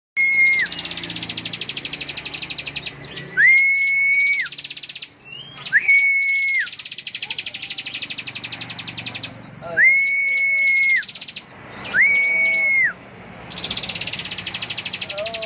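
Ciblek (prinia) singing in the 'ngebren' style: long runs of very fast, buzzy machine-gun trills, broken by about five held, level whistled notes of about a second each.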